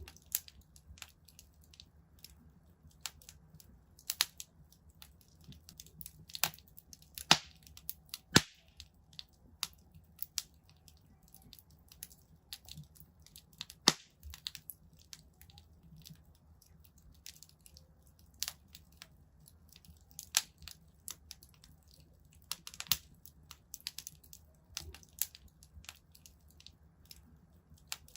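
Wood fire crackling in a fireplace: irregular sharp snaps and pops, a few much louder than the rest, over a faint steady low rumble.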